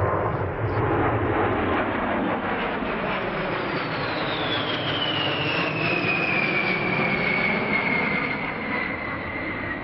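Boeing B-52 Stratofortress's eight turbofan jet engines in a low flyby: a loud, steady rush with a high whine that falls in pitch from about three and a half seconds in as the bomber passes.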